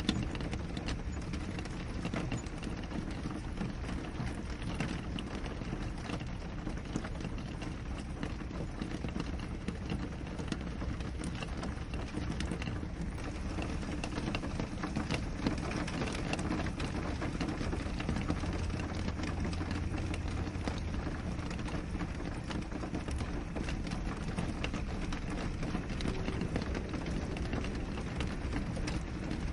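Steady rain pattering on a window, a constant rush of rainfall dotted with many small drop taps.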